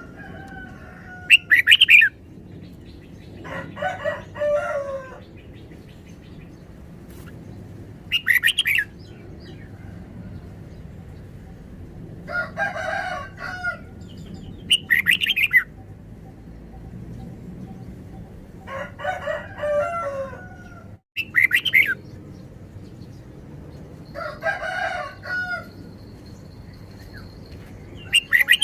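Red-whiskered bulbul singing: short, loud, sharp phrases about every six or seven seconds, alternating with softer warbled phrases of bending whistled notes.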